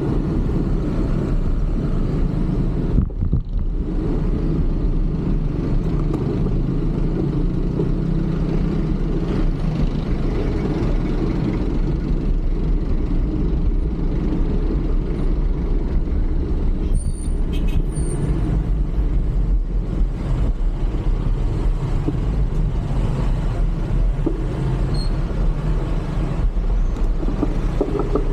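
Steady road-traffic noise with a low rumble of wind on the microphone, heard from a bicycle moving through city traffic.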